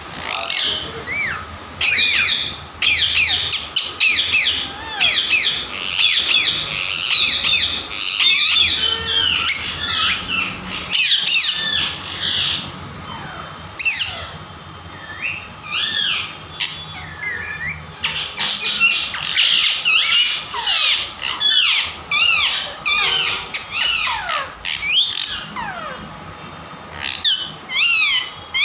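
Parrots squawking: a long, continuous run of short, shrill, screechy calls, many of them overlapping.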